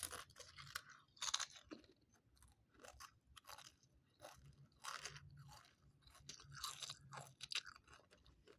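A person chewing crunchy food close to the microphone: a run of irregular, crisp crunches.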